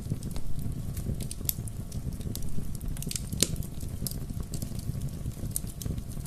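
Bonfire burning: wood crackling and popping at irregular intervals over a steady low rumble of flame, with one sharper pop about three and a half seconds in.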